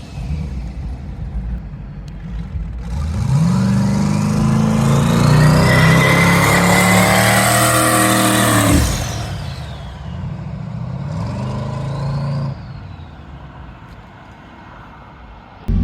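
Twin-turbo Camaro engine pulling hard under acceleration down a drag strip: the revs climb for several seconds, drop off sharply, then climb once more briefly before it backs off and quietens.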